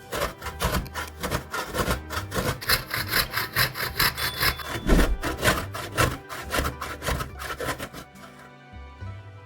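Rapid, even scraping strokes of kitchen food preparation, about five a second, stopping about eight seconds in.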